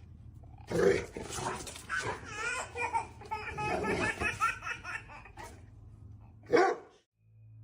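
A dog vocalizing in a run of short, high, wavering calls, mixed with laughter. There is a short loud sound near the end.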